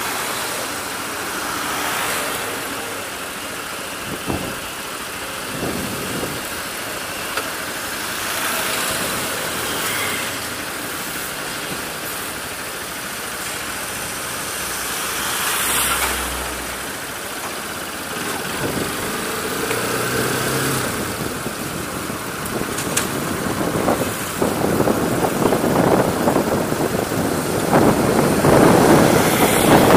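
Bajaj Pulsar RS 200 single-cylinder motorcycle engine running under way, heard from the rider's helmet camera. Wind rush on the microphone grows louder over the last several seconds.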